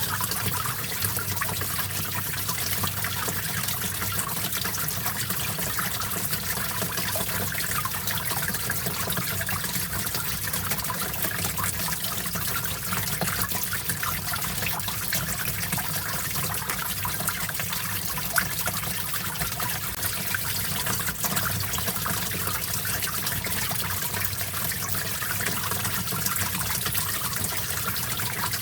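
Small stream of water flowing and trickling steadily, with a single brief tick about 18 seconds in.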